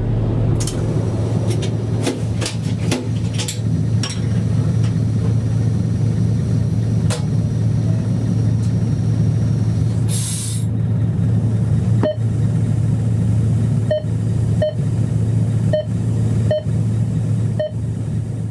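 Locomotive cab interior noise while under way: a steady low rumble throughout, with scattered sharp clicks in the first few seconds and a short hiss about ten seconds in. From about twelve seconds on, short pitched pips sound roughly once a second.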